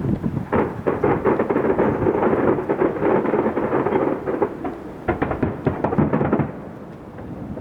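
Fireworks going off in a dense barrage of rapid bangs and crackles that thins out about six and a half seconds in, leaving a lower rumble.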